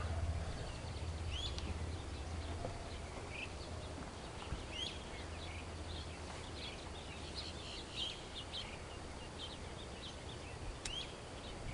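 Marsh birds calling: many short, high chirps and hooked notes scattered throughout, over a steady low hum.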